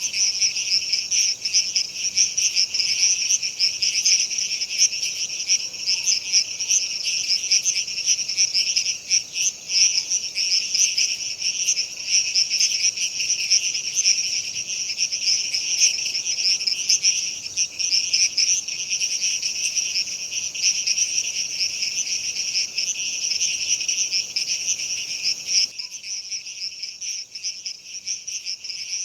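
A dense, steady chorus of insects such as crickets, many high chirps overlapping into a continuous shimmer. Near the end a faint low background hiss drops away while the chorus carries on.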